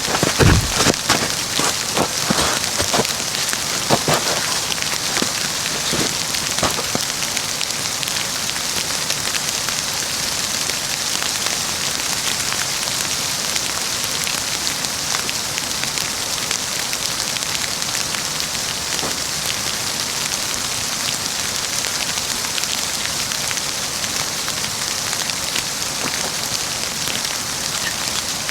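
A campfire burning in falling wet snow: a steady hiss like heavy rain, with sharp crackles, most of them in the first seven seconds.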